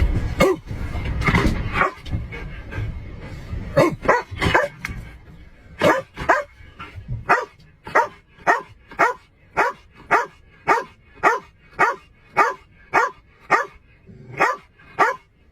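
A dog barking: a few irregular barks at first, then a long steady run of barks at about two a second.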